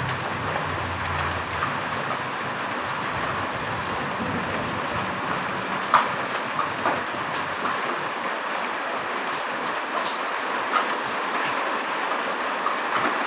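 Steady heavy rain with scattered sharper drips and taps. A low rumble fades out in the first second or two.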